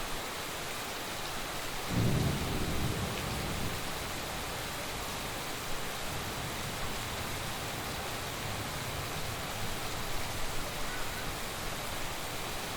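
Heavy rain falling steadily, with a low roll of thunder breaking in suddenly about two seconds in and fading over a few seconds. A fainter rumble follows later.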